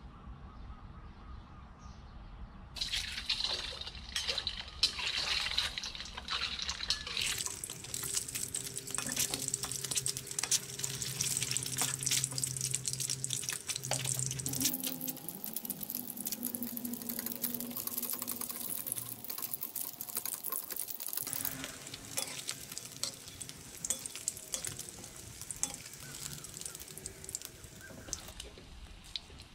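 Halved century eggs frying in hot oil in a pan. A sudden loud hiss as they go in, about three seconds in, is followed by steady sizzling and crackling. Near the end comes the scrape of a metal skimmer turning them.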